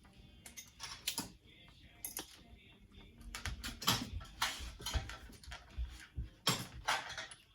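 Irregular clicking, tapping and rattling of small metal parts and cable being handled, sparse at first and denser, with louder knocks, from about halfway.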